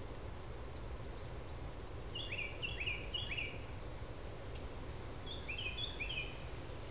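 A songbird singing two quick runs of a repeated short phrase, the first about two seconds in and the second near the end, over a steady low outdoor rumble.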